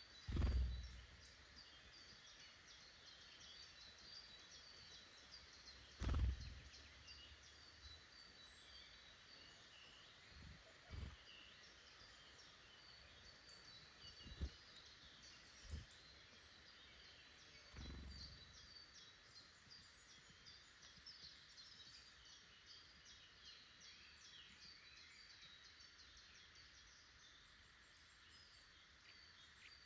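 Faint, continuous chorus of small forest birds chirping and singing. It is broken by about six low thuds, the loudest about half a second in and at about six seconds.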